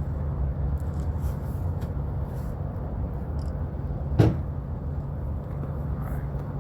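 Steady low machine hum, with a single sharp knock about four seconds in.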